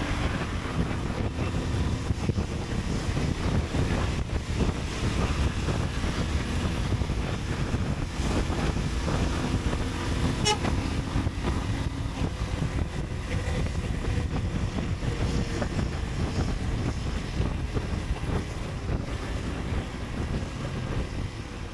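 Motorcycle underway, its engine running under steady wind rush on the rider's microphone, with a single sharp click about halfway through.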